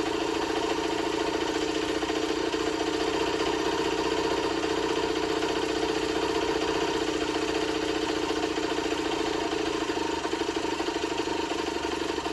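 Two-stroke 50cc engine of a Generic Trigger SM motorcycle idling steadily on its cleaned carburettor, the run holding even with no stalling or revving.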